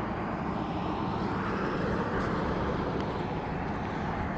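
Steady rushing and low rumbling of wind and motion noise on the microphone during a ride, with no engine note.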